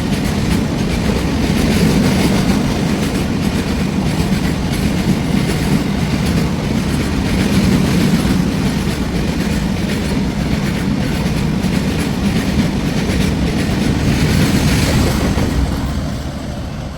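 A train running past close by, its wagons' wheels clattering steadily over the rail joints; the noise fades away near the end.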